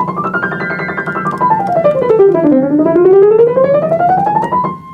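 Piano played in fast, even scale runs: up, then down to a low note about two and a half seconds in, then back up, over a held lower tone. It is a demonstration of evenness with each finger moving independently.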